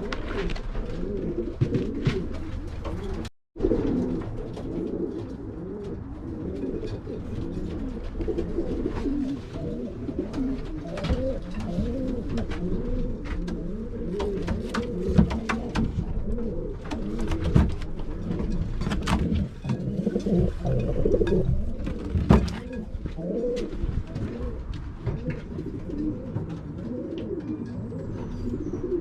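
A flock of racing pigeons cooing, many calls overlapping without a break, with scattered sharp clicks and taps among them. The sound cuts out briefly about three and a half seconds in.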